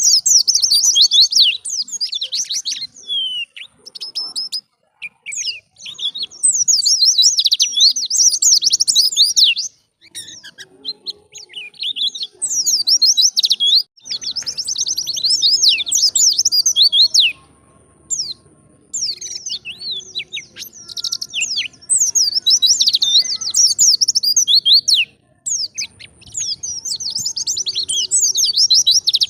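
White-eye (pleci) singing its fast, chattering twittering song in long bouts broken by short pauses.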